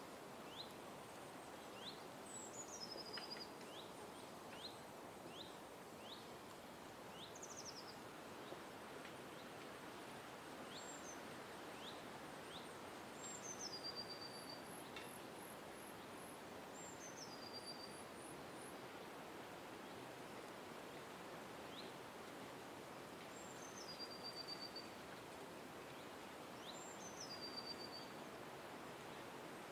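Several small birds calling over a steady background hiss. One call, repeated every few seconds, drops in steps from a high note to a lower held one. Around it come many short rising chirps and two brief runs of very high, thin notes near the middle.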